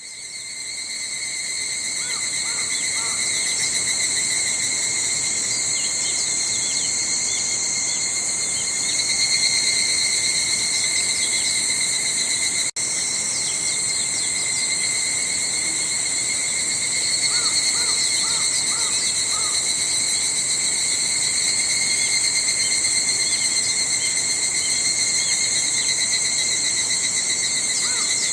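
A chorus of cicadas, higurashi and niinii-zemi, keeps up a dense, steady, shrill buzzing drone, with rippling calls layered over it.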